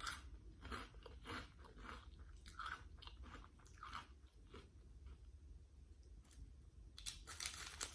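Close-up chewing of crunchy Flamin' Hot Cheetos, crisp crunches a couple of times a second that thin out after about four seconds. A short run of louder crackles comes near the end.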